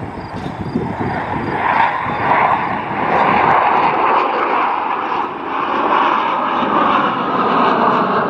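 Jet engines of the four-ship Blue Angels diamond formation flying the dirty roll, low and slow with landing gear and flaps down. A steady rushing jet noise builds over the first three seconds, then holds.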